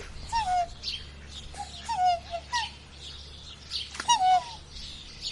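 Swan calling: a series of short honking calls, each falling in pitch, about five in all, over small birds chirping in the background.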